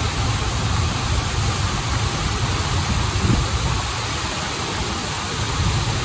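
Running water from a stream and waterfall: a steady rush, with a deep rumble under a broad hiss.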